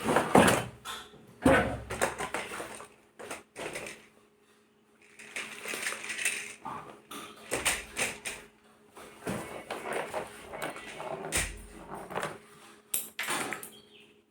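Unboxing handling noise: irregular rustles, taps and clicks as a remote-control toy car's box and packaging are opened and handled.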